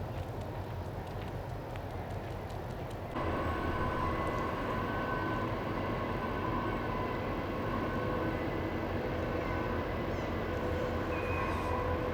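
Steady low engine rumble of a passing ship. About three seconds in it abruptly gets louder, and a few steady machinery whines come in above it.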